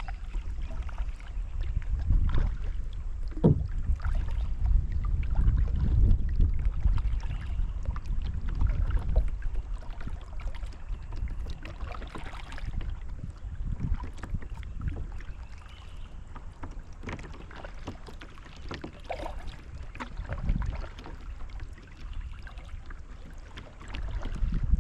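Kayak paddling on a river: the paddle dipping and dripping water, with many small splashes and light knocks over a steady low rumble that eases off about halfway through.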